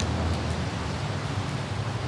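Light rain hissing with wind over a steady low rumble of city traffic, with a few faint droplet ticks.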